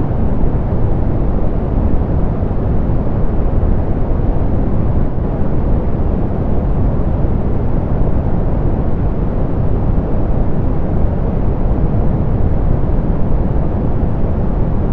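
Steady, softened pink noise: an even hiss weighted toward the low end, dark and rumbly with little treble, unchanging throughout.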